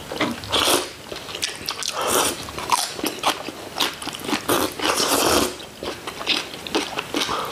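Close-miked eating: chewing and biting food, with a steady run of short crunchy mouth noises.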